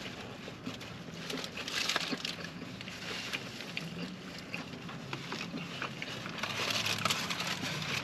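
Close-up eating sounds: chewing on a fast-food burger or sandwich, with many small wet clicks and crackles from the mouth. A low steady hum runs underneath.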